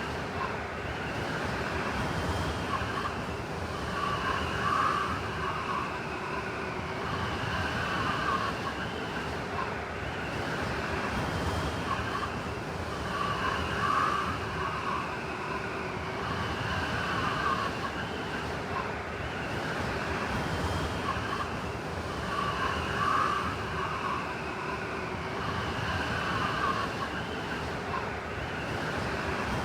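Blizzard wind blowing in a steady rush, with a wavering whistle that swells every four to five seconds.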